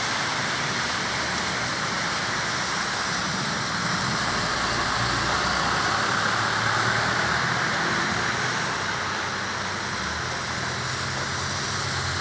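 Steady hiss of rain, with road-traffic engines humming low underneath.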